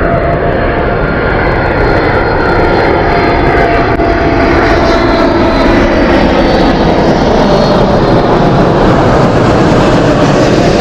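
Jet airliner's engines running loud and close: a dense rush of noise with whining tones, some gliding slowly down in pitch.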